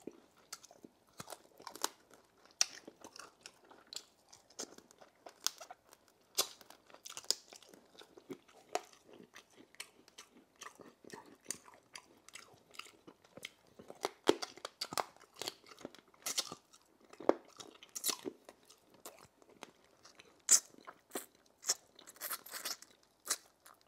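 A person biting and chewing roast chicken bones, with irregular sharp crunches and cracks.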